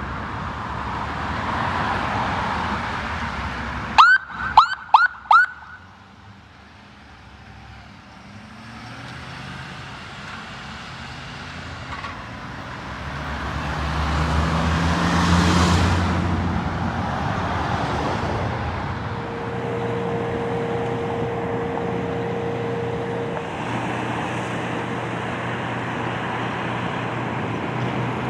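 Fire apparatus responding from the station: four short, sharp warning blasts about four seconds in, then the deep rumble of a heavy truck engine building up as it pulls out, with a steady warning tone held for a few seconds later on.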